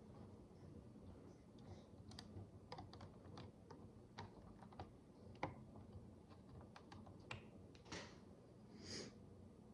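Faint, irregular small plastic clicks and taps of micro bricks (miniature building bricks) being handled and pressed together, with one sharper click about halfway through and two softer rustling sounds near the end.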